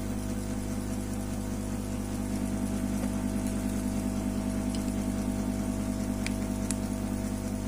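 Steady mechanical hum with a fast even flutter, and two faint clicks near the end.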